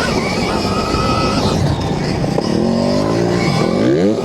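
Stark Varg electric motocross bike being ridden, heard as a steady rush of wind and track noise. Near the end the electric motor's whine climbs steeply in pitch as the throttle is opened.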